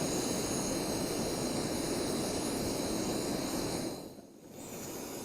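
Camp stove burner running with a steady roaring hiss, heating a pot to the boil. It cuts out sharply near the end and comes back quieter.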